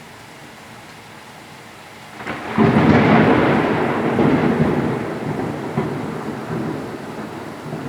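Steady rain, then about two seconds in a loud thunderclap breaks and rumbles on, fading slowly.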